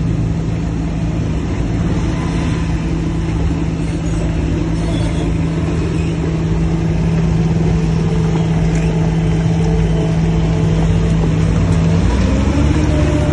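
Heavy diesel engine of earthmoving machinery running steadily at a constant speed, its note shifting near the end.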